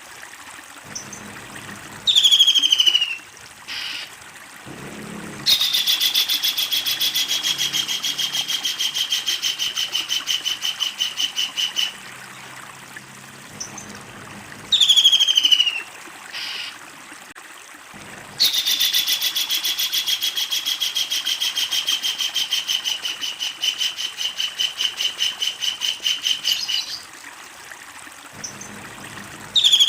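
Kingfisher calling: a short falling note followed by a long, rapid rattling call lasting several seconds. The sequence repeats twice.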